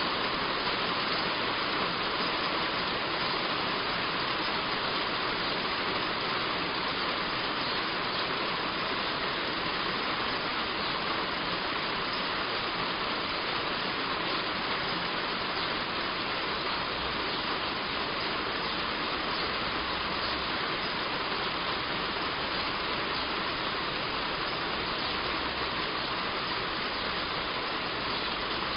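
Heavy rain falling steadily on a roof: a constant, even hiss with no pauses.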